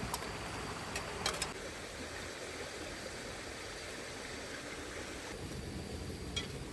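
Campfire burning under a pot on a grill, a steady hiss broken by a few sharp crackles about a second in and again near the end.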